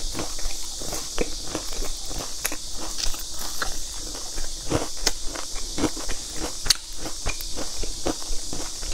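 Close-miked chewing of a crusty, breadcrumb-coated fried bun: irregular crunches, crackles and wet mouth clicks, a few a second, over a steady hiss.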